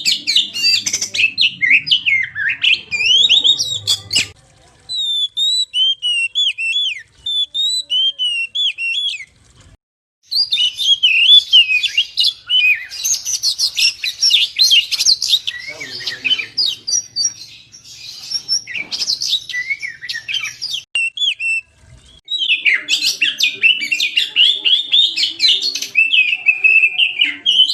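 Oriental magpie-robin (kacer) in full, energetic song: a loud, fast run of varied whistles and chattering phrases, broken by brief pauses about 4, 9 and 22 seconds in.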